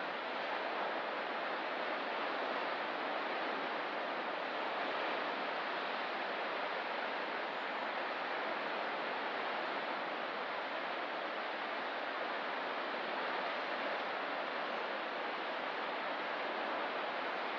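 Ocean surf making a steady, even roar without distinct breaking waves.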